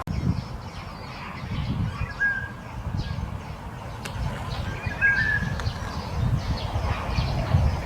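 Birds calling: a short whistled note about two seconds in and another about five seconds in, with faint high chirps scattered between them, over a steady low rumble.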